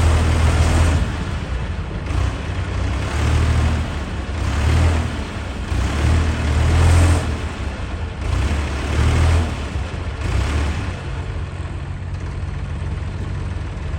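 Heavy diesel engines of a tractor and a road roller straining against each other in a pulling contest, revving in repeated surges about every one and a half seconds. Near the end the engine noise settles to a steadier run.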